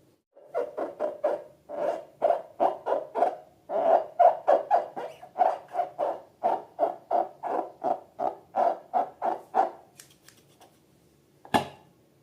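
A series of short squeaky, hooting squeals, about three a second, from rubber balloons being squeezed. Near the end there is one sharp snap.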